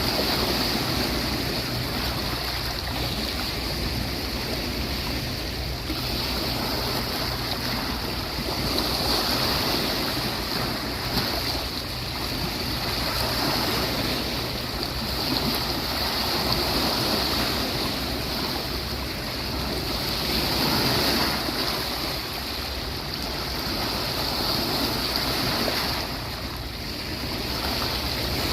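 Sea waves washing onto a beach, a continuous wash of surf that swells and eases every few seconds.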